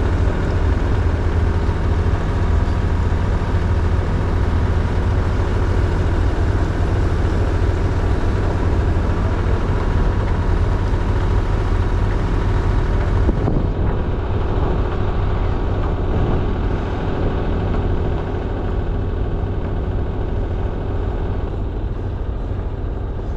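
Sailing boat's auxiliary engine running steadily under way, a loud low drone. About halfway through, the sound turns duller as the higher hiss drops away.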